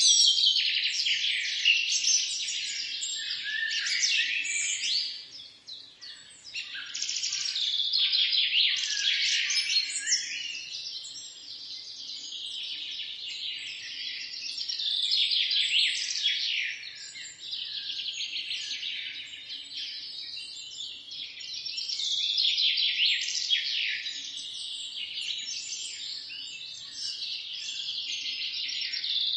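Many small birds chirping, their quick calls overlapping in a dense chorus, with a short lull about five seconds in.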